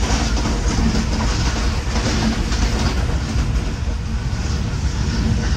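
Pakistan Railways Business Express passenger train running along the line: a steady, even rumble with rail noise and no distinct clicks or horn.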